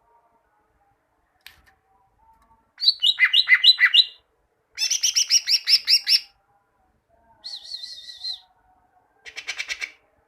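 Green leafbird (cucak ijo) singing: four bursts of fast repeated, sharp notes separated by short pauses, one of them a trill. Faint lower whistles are heard between the bursts.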